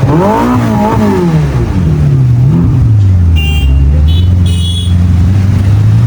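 Motorcycle engine revved a few times, its pitch rising and falling, then settling into a steady low idle.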